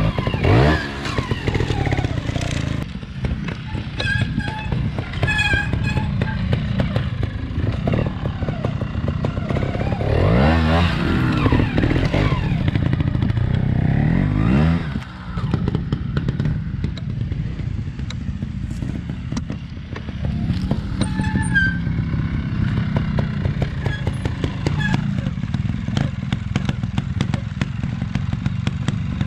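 Trials motorcycle engine running at a low idle and being blipped, revving up and dropping back a few times as the bike is worked through a practice section, with scattered clicks and knocks.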